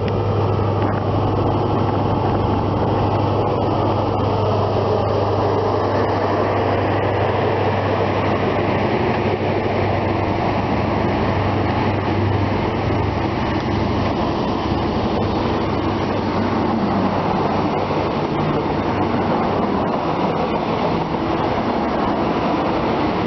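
Diesel engine of a Class 43 HST power car, an MTU V16, working as the CrossCountry HST pulls past and its coaches roll by with a steady rumble. The low engine drone fades about fourteen seconds in as the power car draws away.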